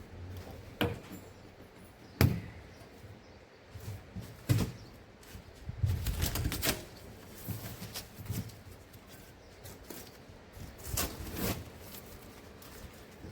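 Irregular knocks and clacks of objects being handled, spaced a second or more apart, the sharpest a little over two seconds in and a few grouped together around the middle.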